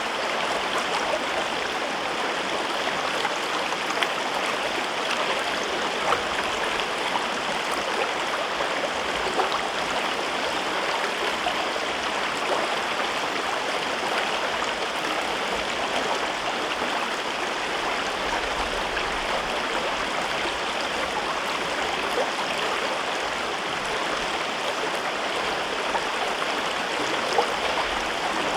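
A river flowing steadily through a rocky gorge, a constant babbling rush of water with small splashes here and there.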